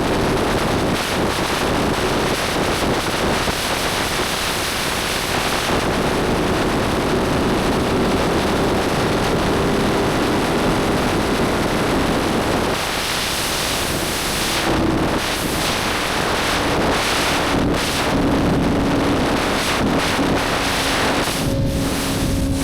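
Motorcycle riding at speed: a steady rush of wind over the microphone with the engine's steady note underneath. A little over halfway through, the engine note drops slightly lower and holds there.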